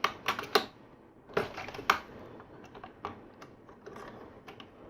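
Plastic LEGO pieces clicking and clattering as they are handled: a few sharp clicks in the first two seconds, then lighter, scattered ticks.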